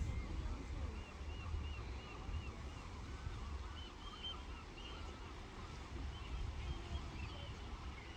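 Birds calling in a run of short, high chirping calls, over a low rumble of wind on the microphone.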